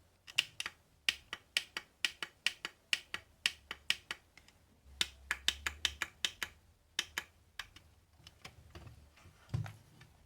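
Buttons pressed in quick succession: a run of sharp clicks, about three to four a second, thinning out after about seven seconds.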